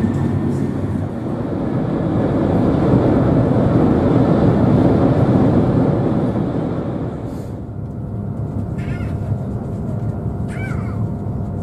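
Eurostar high-speed train running at speed, near 290 km/h, heard inside the carriage as a steady low rumble and rush that eases a little about two-thirds of the way through. Near the end come two short squeaky chirps.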